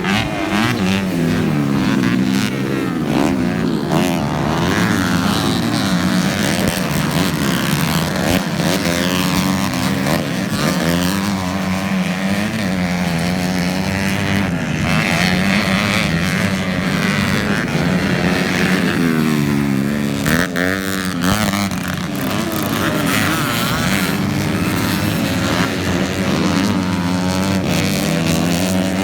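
Several motocross bikes racing together, their engines overlapping and revving up and falling back again and again.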